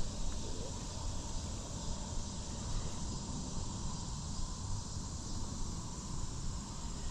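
Steady outdoor background noise: an even hiss over a low rumble, with a faint steady high tone throughout.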